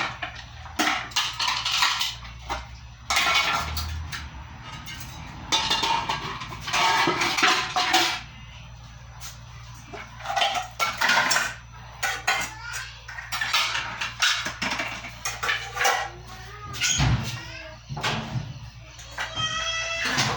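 Dishes, pots and cutlery clattering and knocking together as they are handled and put away, in irregular clusters of clinks and knocks.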